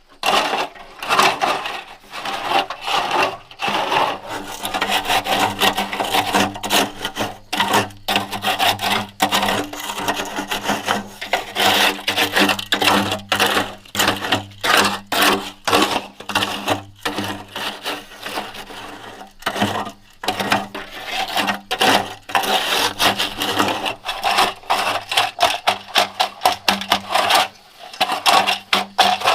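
Hand tools scraping and rubbing in quick, irregular strokes, with sharp gritty clicks between them.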